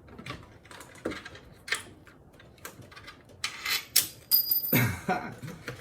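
Hand tools and metal parts clicking and clattering in an engine bay during work on the intake manifold, with a few sharp knocks and a short scraping rush about three and a half seconds in.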